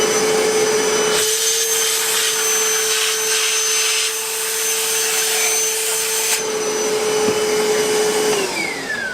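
Milwaukee M18 cordless wet/dry vacuum running with a steady high whine and a loud rush of air. The rush of air grows louder about a second in and eases after about six seconds. Near the end the vacuum is switched off and its whine falls away as the motor spins down.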